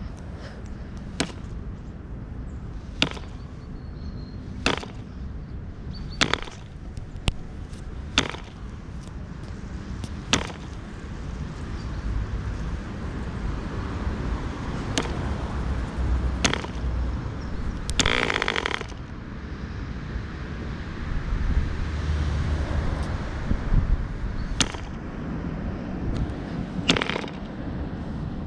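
MK-12V model aircraft compression-ignition engine being started: single sharp pops every second or two as individual cylinders fire, then about 18 s in it catches and runs fast for about a second before dying, followed by more irregular popping and sputtering.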